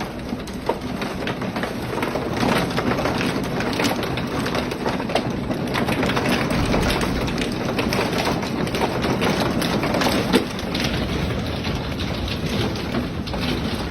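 Hail and rain pelting down hard: a dense, continuous clatter of many small sharp impacts over a steady rushing noise.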